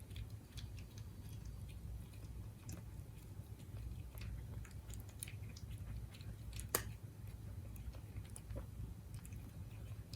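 Siberian cat chewing its food close up: a run of small irregular clicks and crunches, with one sharper click about two-thirds of the way through, over a steady low hum.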